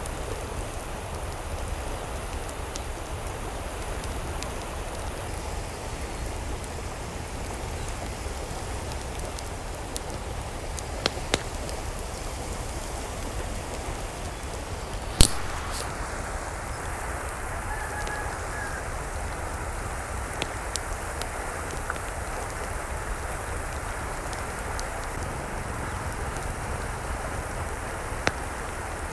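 Steady hiss of falling water, like rain, with a few sharp clicks scattered through it, the loudest about halfway.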